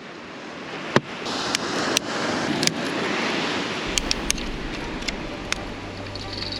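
Dry sticks being snapped by hand, a series of sharp cracks, the loudest about a second in, over steady surf. A low hum comes in about four seconds in.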